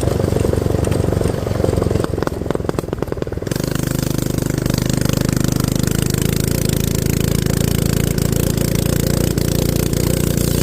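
Coleman go-kart's small gas engine running, rough and uneven for the first few seconds, then settling into a steady drone about three and a half seconds in.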